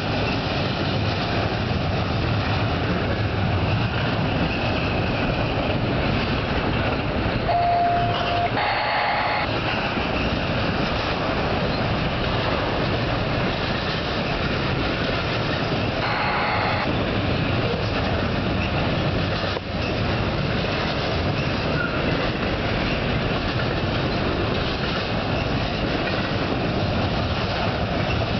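Union Pacific intermodal freight train rolling past: a steady rumble and rattle of steel wheels on rail, with two brief higher tones, about eight and sixteen seconds in.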